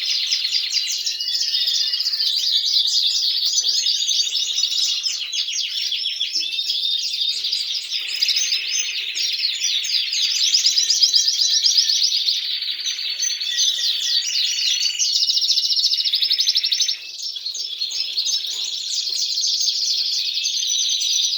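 Several domestic canaries singing at once: continuous, overlapping fast trills and chirps with no pause, dipping only briefly once near the end.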